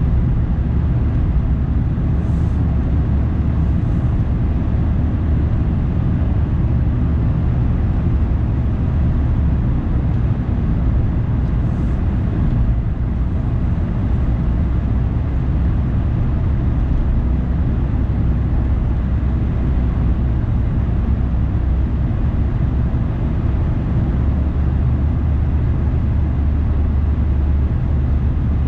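Steady low rumble of a car driving, with engine and tyre-on-road noise.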